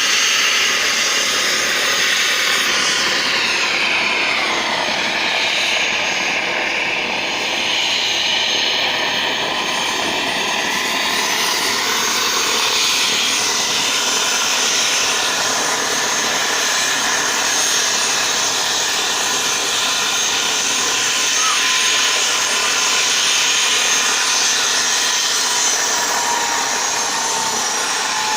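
Helicopter turbine engine and rotor running steadily with a high whine, a few whining tones drifting slowly in pitch and one falling near the end.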